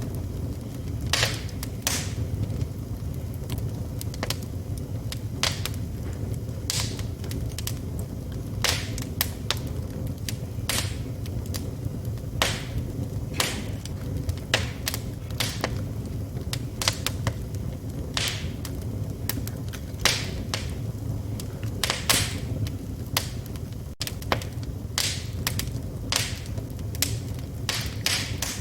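Wood fire burning in a fireplace: irregular sharp crackles and pops from the burning wood over a steady low rumble and hiss of the flames.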